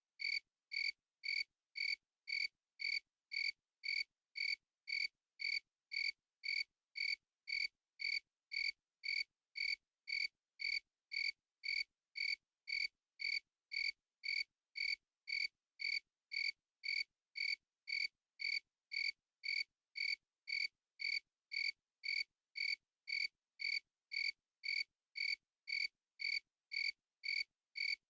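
Cricket chirping in a steady, even rhythm of about two short, high chirps a second.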